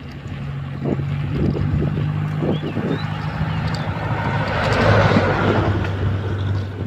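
A motor vehicle passing close by on the road: its engine hum drops in pitch as it goes past, about four and a half seconds in, and the road noise swells to a peak and then eases off.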